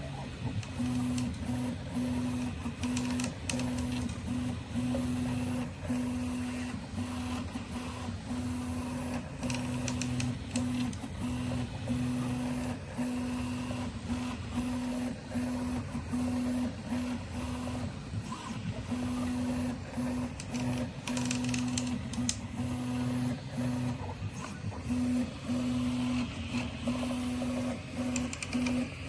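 Prusa i3 MK3S+ 3D printer running, its stepper motors whining in repeated moves that start and stop, with bursts of creaking clicks in between. The creak comes only when the print head travels on the right side of the horizontal (X) axis.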